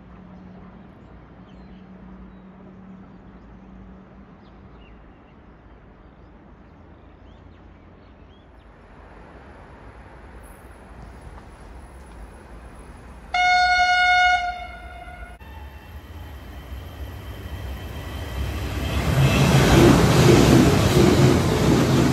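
A train sounds a single horn blast of about a second, one steady pitched tone. A few seconds later the train comes in, its rumble and rail noise rising to loud for the last few seconds.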